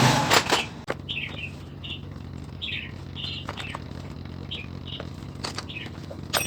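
Small birds chirping in short, repeated calls, with a few sharp clicks and knocks and a steady low hum underneath.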